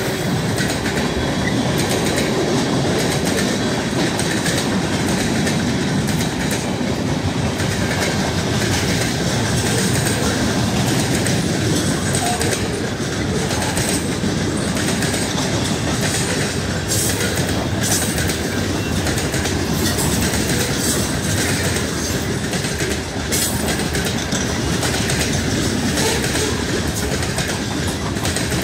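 Freight train cars (tank cars, covered hoppers and boxcars) rolling past close by: a steady rumble of steel wheels on rail, with scattered clicks as the wheels cross rail joints.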